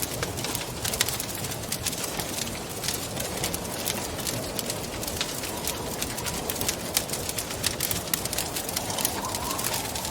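Wood fire crackling with many small sharp pops, over a steady rush of wind with a faint wavering whistle that rises briefly near the end.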